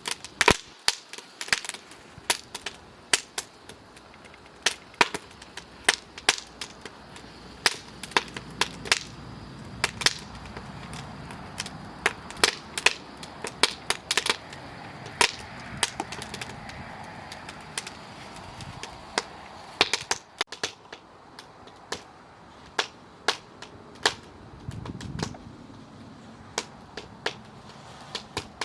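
Firewood burning in the wood-fired heater of a Dutchtub outdoor bathtub, crackling with sharp, irregular pops several times a second.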